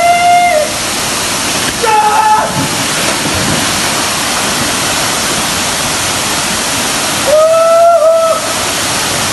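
Waterfall rushing steadily at close range, with three short held shouts cutting through it: one at the very start, one about two seconds in, and a longer one about seven and a half seconds in.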